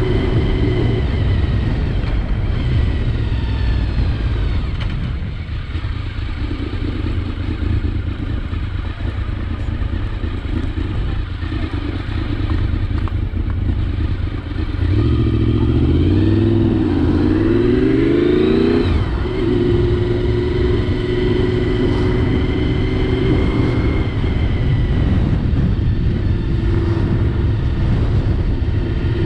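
Honda VFR750's V4 engine running under way, with heavy wind rumble on the helmet microphone. About two-thirds of the way through, the engine speeds up with rising pitch, then drops suddenly.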